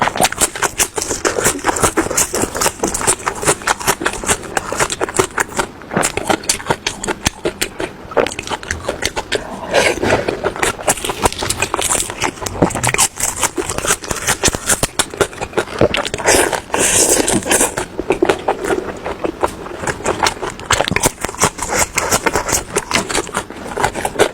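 Close-miked chewing of red-braised pork belly: a steady run of wet smacking and sticky mouth clicks, with no pause.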